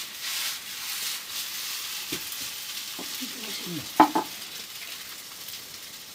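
Chicken noodles sizzling in a wok as they are tossed and stirred, a steady frying hiss, with one sharp metal clank about four seconds in.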